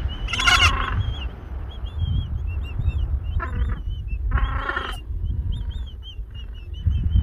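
Gentoo penguins calling: three short harsh calls, about a second in and twice around the middle, with a run of thin, high, rising-and-falling peeps in between.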